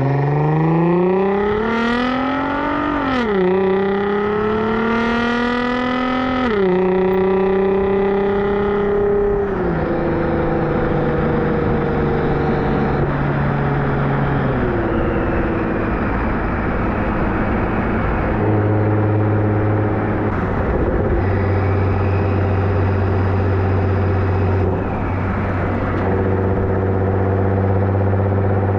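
Nissan GT-R R35's twin-turbo V6 through an ArmyTrix valved stainless exhaust, accelerating hard: the note climbs and drops back quickly at each of three upshifts in the first ten seconds or so. It then settles into steady cruising, with a couple of lighter shifts and a steady drone.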